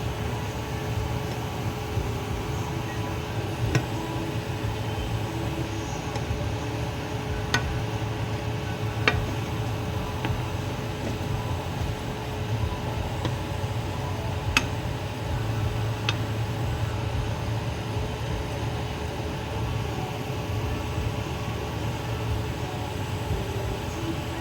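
Samosas deep-frying in hot oil over a low gas flame: a steady hiss over a low hum, with a few sharp clicks scattered through.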